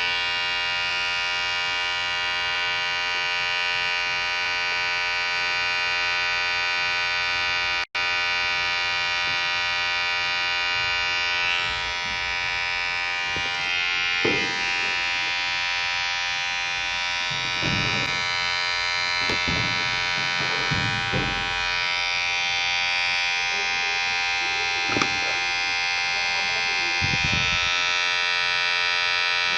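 Vibrating electric hair clipper buzzing steadily. The buzz cuts out for an instant about eight seconds in, and in the second half it has short, uneven swells.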